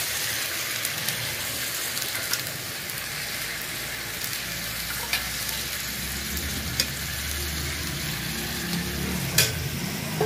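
Marinated chicken pieces sizzling and frying in hot oil and masala in a kadai, just after the raw meat has gone into the pan, a steady hiss broken by a few sharp clicks, the strongest near the end.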